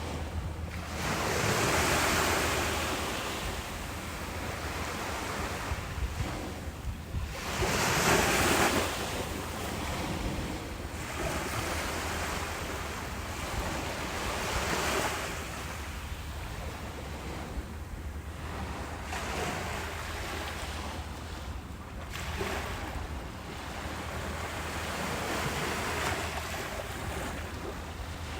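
Ocean waves breaking on a beach, each wash of surf swelling and fading every six or seven seconds, the biggest two near the start. Wind noise on the microphone runs underneath.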